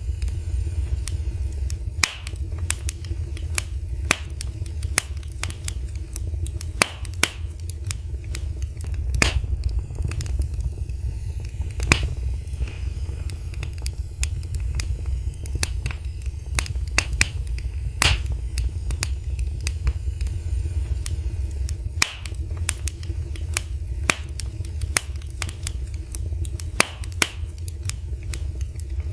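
Wood fire in a fireplace crackling, with sharp irregular pops and snaps several times a second over a steady low rumble.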